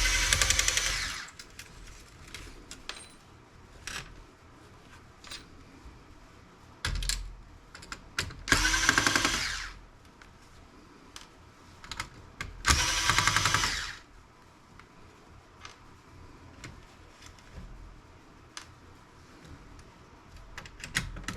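Small electric screwdriver whirring in three short bursts of about a second and a half each, backing out small laptop screws. Light clicks of handled parts come in between.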